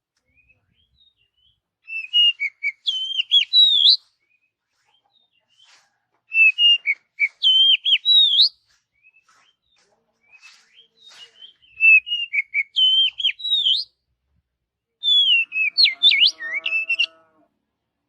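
Oriental magpie-robin (kacer) singing: four whistled phrases of about two seconds each, separated by short pauses. A lower-pitched call joins beneath the last phrase.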